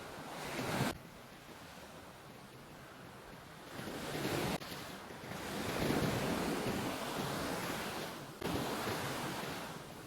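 Sea waves washing onto a beach, the surf swelling and fading every few seconds, with wind on the microphone.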